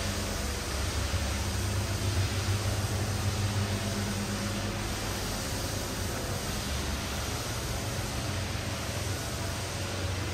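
Land Rover Discovery Sport's engine idling: a steady low hum under an even hiss.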